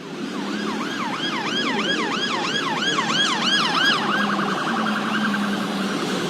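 Emergency vehicle siren in its yelp pattern, sweeping down and up about two to three times a second, then switching to a much faster warble about four seconds in, over the low rumble of a vehicle.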